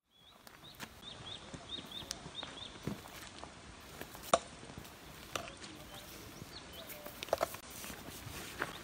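A small bird chirping: a quick run of short high chirps, about three or four a second, over the first few seconds, then scattered chirps later. Under it come faint footsteps and rustling in grass, with a sharper knock about four seconds in.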